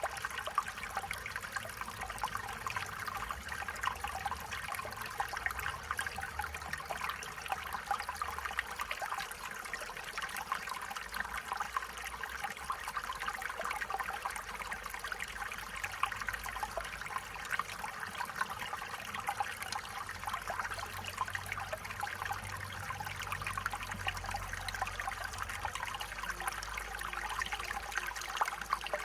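Stream water running and bubbling over rocks, a steady babbling with fine splashing and gurgling throughout.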